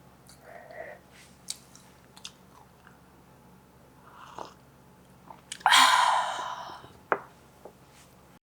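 Person chewing and biting into a flaky puff pastry pizza bite: soft mouth clicks and chewing, with one louder crunchy burst lasting about a second near the six-second mark, then a single sharp click.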